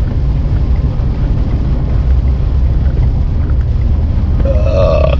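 Steady low rumble of road and engine noise heard inside a truck's cab while driving in heavy rain.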